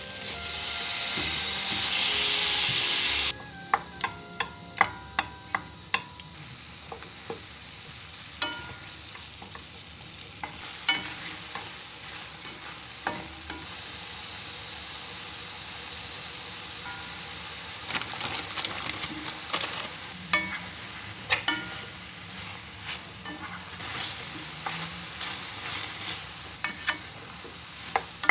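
Marinated beef bulgogi hitting a hot stainless steel pan sizzles loudly for about three seconds, then fries more quietly while it is stirred. Sharp, ringing taps of a utensil against the pan come in a quick run about four seconds in and now and then after.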